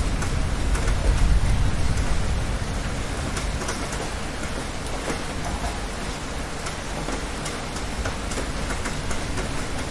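Steady rain with many separate drop hits. Under it a low thunder rumble swells in the first two seconds, then fades away.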